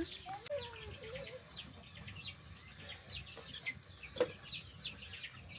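Chickens, with chicks peeping: a steady run of short, high, falling peeps, two or three a second, over a lower wavering call in the first second or so. A single sharp knock about four seconds in.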